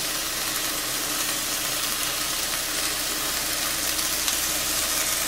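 Thin chicken breast fillets sizzling steadily in a hot oiled frying pan.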